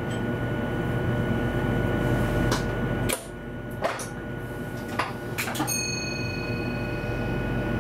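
Interior of an electric train's driver's cab: a steady running hum and rumble with a constant high-pitched electrical tone. A handful of sharp clicks and knocks fall in the middle.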